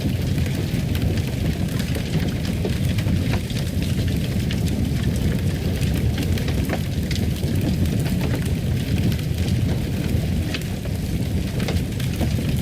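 Fireplace fire crackling: a steady low rumble of burning with many small irregular crackles and pops scattered throughout.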